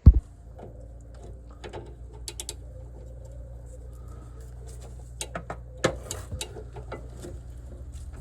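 Hand tools working on a car's front suspension: a sharp knock at the start, then scattered, irregular metallic clicks and knocks over a steady low hum.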